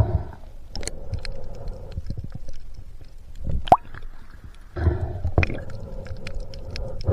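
Muffled, rumbly breaths of a spearfisherman through his snorkel, coming in bursts with water sloshing around a camera housing. Scattered sharp clicks run throughout.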